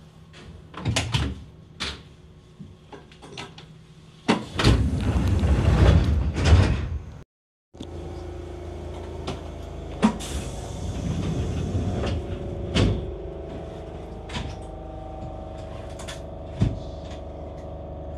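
Sounds inside an Enshu Railway electric train: scattered clicks and knocks, then a loud rushing hiss for about three seconds. After that comes a steady hum with a few sharp clunks.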